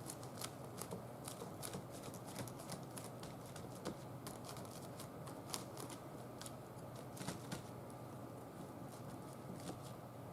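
Faint, irregular light tapping and clicking as white paint is dabbed through a plastic stencil onto a journal page, a few taps a second.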